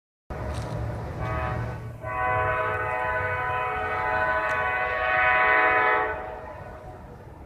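CSX diesel locomotive's air horn sounding a chord: a short blast, then a long blast of about four seconds that fades away. A low engine rumble runs under it.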